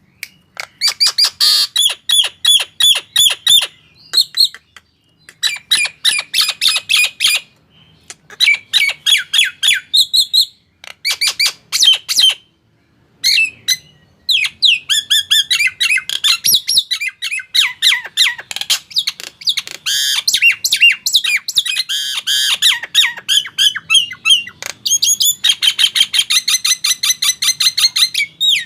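Male Nias hill myna calling in quick runs of sharp, repeated notes, several a second, in bursts of a few seconds broken by short pauses.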